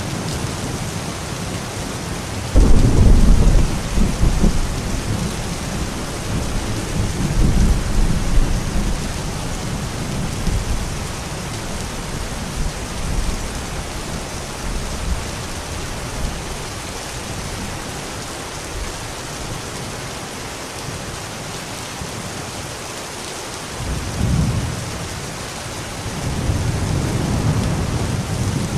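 Steady heavy rain hissing, with a sudden low rumble of thunder about two and a half seconds in that rolls on for several seconds, and further rolls of thunder near the end.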